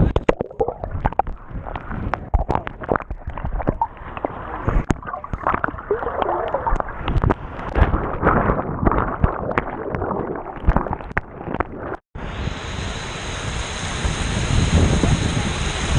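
Sea water splashing and sloshing with irregular knocks and wind on the microphone. After a cut about twelve seconds in, a steady hissing rush of heavy rain.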